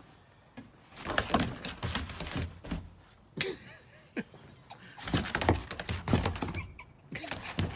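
Irregular knocks and thumps in two bursts, the first about a second in and the second about five seconds in.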